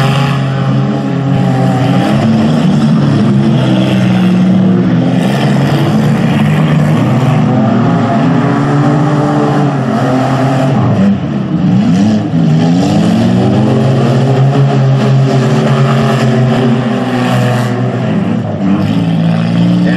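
Engines of several figure-8 demolition derby cars racing together, revving up and easing off in overlapping rising and falling pitches. About eleven seconds in, one engine drops off briefly and then climbs back up as it accelerates.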